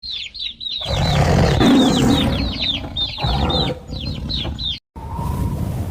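Chicks peeping: quick, high, falling cheeps, several a second, over a low rumble. They cut off suddenly near the end, and a steady hum follows.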